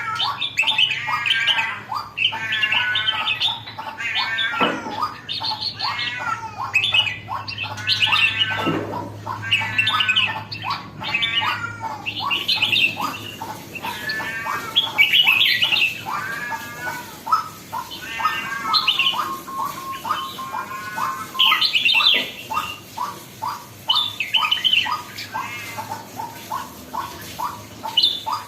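Red-whiskered bulbul singing and calling in short, repeated warbling phrases, with quick chattering notes between them; a bird just coming into its lively, vocal form.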